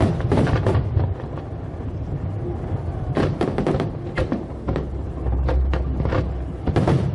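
Fireworks going off in irregular loud bangs, several close together near the start and again from about three seconds in, with a deep rumble about five seconds in, over music.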